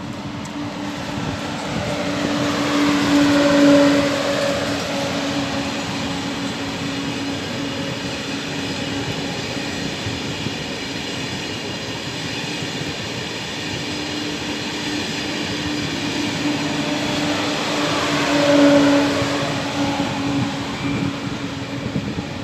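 SNCF TGV high-speed electric trainset passing. It is loudest about four seconds in and again near the end as its two power cars go by, with the steady rolling rumble of the coaches in between.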